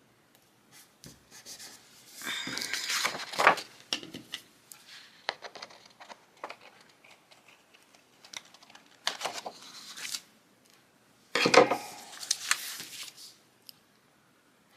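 Paper and planner sticker sheets being handled: three bursts of rustling and crackling paper, about two seconds in, around nine seconds, and again near eleven and a half seconds, with light taps and clicks between.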